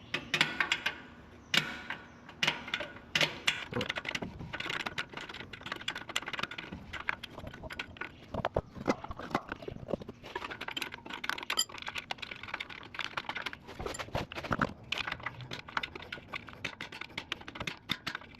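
Rear drum brake adjuster being turned through the slot in the backing plate with a metal tool: irregular metal clicks and scrapes, the adjuster stiff and hard to turn.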